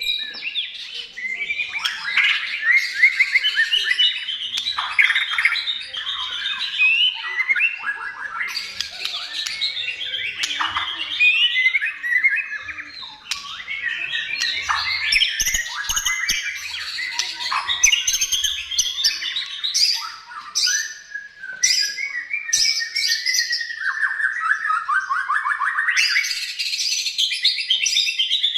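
White-rumped shama singing continuously: a long, varied, high song of quick phrases, rapid trills and harsh rattling chatter, one phrase running straight into the next.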